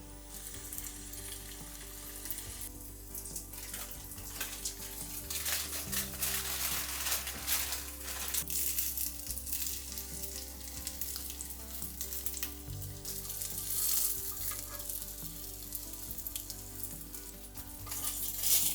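Food frying in hot oil in a pan, a steady crackling sizzle that swells louder in stretches.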